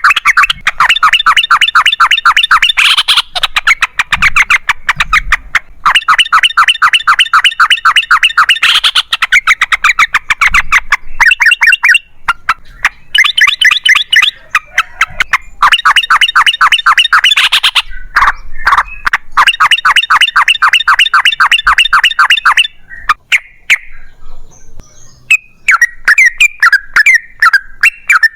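Yellow-vented bulbul (trucukan) singing long rolling phrases of fast, evenly repeated notes, each run lasting a few seconds with short pauses between, breaking into looser chattering notes near the end.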